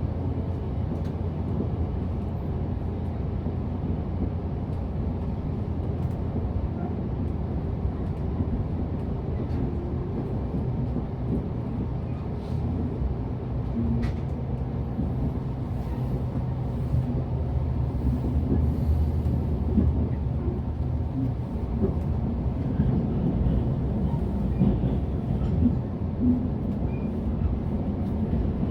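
Running sound inside a JR Central 383 series electric limited-express car: a steady low rumble of wheels on rail, with a few faint clicks, growing a little louder after about halfway through.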